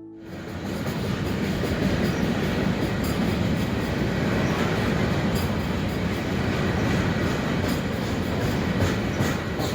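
Train rolling past close by: a steady rumble of wheels on rails with a few sharp clicks, most of them near the end.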